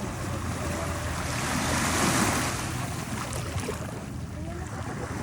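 Sea surf: a wave breaks and washes in, swelling to a peak about two seconds in and then fading, over a steady low rumble of the sea.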